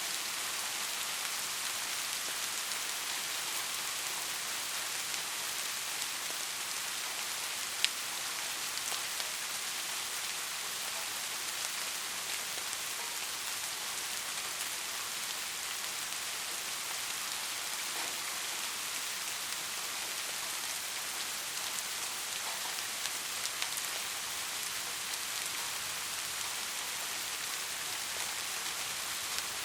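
Steady rain falling, an even hiss with close drops tapping now and then. One sharp tap about eight seconds in is the loudest moment.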